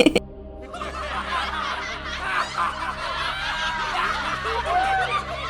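Many children's voices laughing and chattering together, a dense mass of small giggles, over soft background music.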